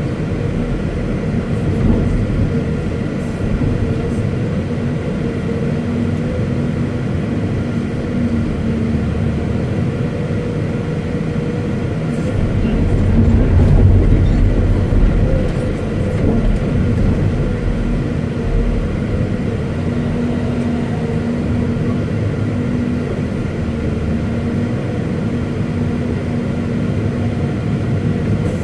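Caterpillar 329E hydraulic excavator's diesel engine running steadily, growing louder for a couple of seconds about halfway through.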